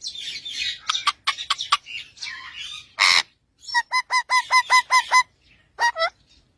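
Parrot calls: rasping squawks and one loud harsh squawk, followed by a quick run of about nine short, evenly repeated chirping notes and a last call near the end.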